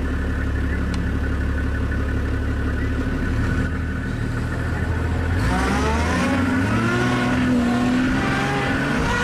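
A motor vehicle's engine running steadily, then revving up about five and a half seconds in, its pitch rising and wavering as it accelerates.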